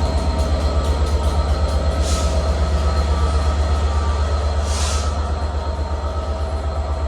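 Class 67 diesel locomotive's EMD two-stroke V12 working hard as it pulls away, a loud low engine note with a fast pulse: the 'thrash' of the engine under full power. Two short hisses come about two seconds and five seconds in.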